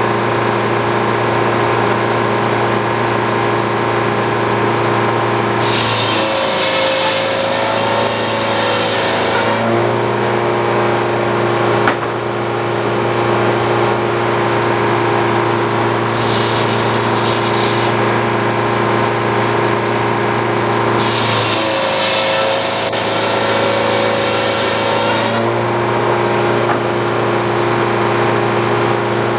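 Old Frick circular sawmill running steadily, its saw cutting through a poplar log twice, each cut lasting about four seconds with a rising hiss and whine from the blade while the power unit pulls down under the load. A shorter, lighter bit of cutting comes between the two.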